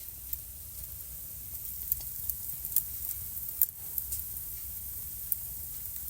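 Wood fire crackling in a fireplace: irregular sharp pops and snaps, the loudest a few seconds in, over a steady low hiss and rumble of burning.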